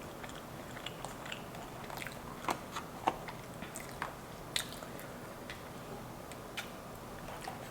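Close-miked chewing of French fries: wet mouth sounds with scattered crisp crunching clicks that thin out over the last few seconds.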